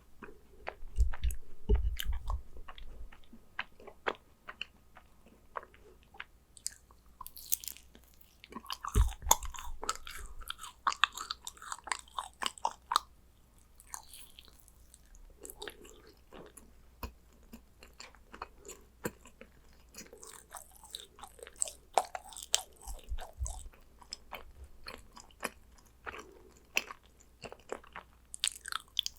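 Close-miked chewing and biting of yakgwa, Korean fried honey cookies: a steady run of sticky, wet mouth clicks, with louder stretches of biting and chewing a second in, around nine to thirteen seconds, and again near twenty-three seconds.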